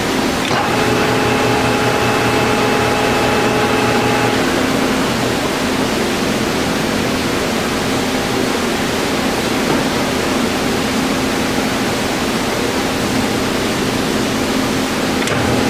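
Harrison M300 engine lathe running under power, its geared headstock giving a steady mechanical hum over a noisy whir. For the first four seconds or so a higher gear whine sits on top, then stops.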